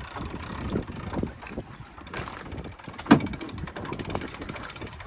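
Sailboat winch ratcheting in rapid clicks as a sheet is cranked in to trim the sail, with wind on the microphone and one loud knock about three seconds in.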